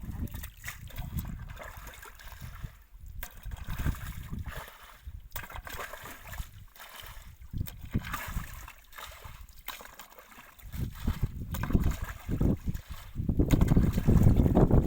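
Shallow muddy canal water sloshing and splashing in irregular bursts as fish are caught by hand, with louder low rumbling near the end.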